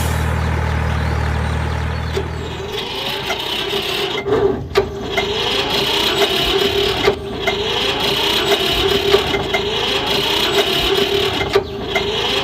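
A deep engine-like hum stops about three seconds in. Then a small motor runs steadily, with a higher whine and scattered clicks and knocks.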